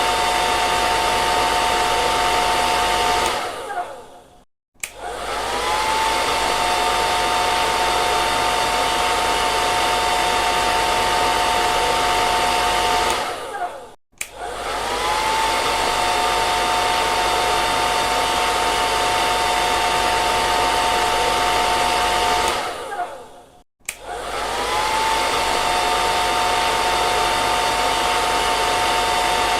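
Hair dryer blowing with a steady rush of air and a motor whine. Three times it dies away, the whine falling, and after a short silence spins back up with a rising whine to full speed.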